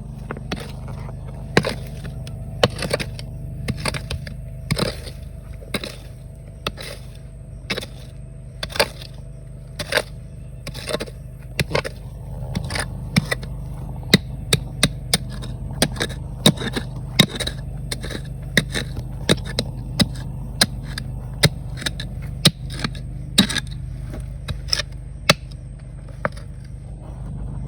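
A metal digging tool striking and scraping rocks and gravel in a series of sharp knocks, about one a second at first and quickening to about two a second in the second half, over a steady low rumble.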